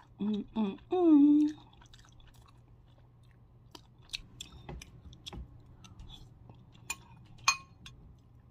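Chewing gumbo and rice with soft mouth clicks. Three short hummed 'mm' sounds of enjoyment come in the first second and a half, the loudest part. Near the end a metal spoon clinks twice against the glass bowl.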